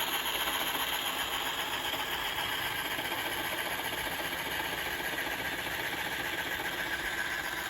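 Ecovacs Deebot T8+ robot vacuum-mop running, its suction fan going together with the oscillating Mopping Pro pad scrubbing a wet, sticky surface: a steady, even mechanical hum and whir.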